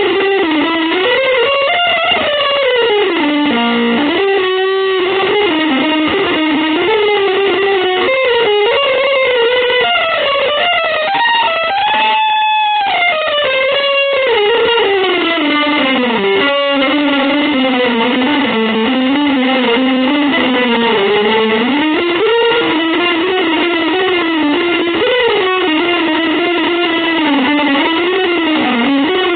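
Electric guitar with a sustained, effected tone playing one continuous melodic line, sliding and bending smoothly from note to note rather than strumming chords.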